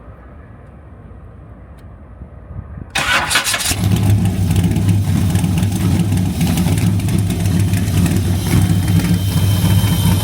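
A freshly reassembled car engine cranks and fires about three seconds in, then settles into a steady idle.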